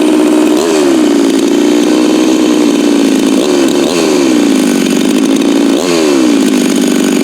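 Farmertec MS 660 clone two-stroke chainsaw with a 36-inch bar running at full throttle under load in a cut. Its engine speed jumps up sharply and sags back down four times as the chain bites.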